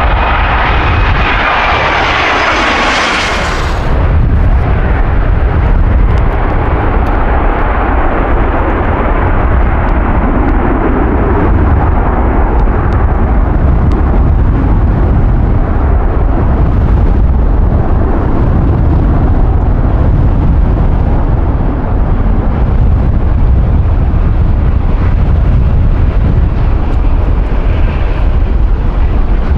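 Airbus A330-300 freighter's Rolls-Royce Trent 700 engines at go-around thrust. A loud, high whine with steady tones sounds as it approaches, then cuts off sharply about four seconds in, leaving a deep, continuous rumble as the jet passes and climbs away.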